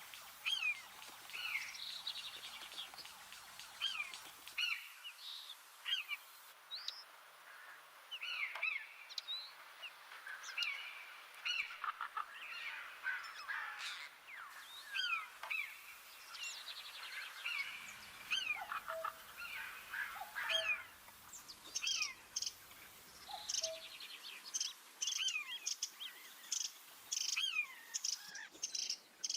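Small birds chirping and calling, many short falling notes overlapping; the chirping gets busier and higher toward the end.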